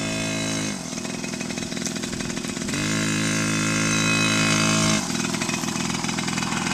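Small child's dirt bike engine revving as it is ridden: a short burst of throttle at the start, a drop back, then a longer rev of about two seconds near the middle before it eases off again.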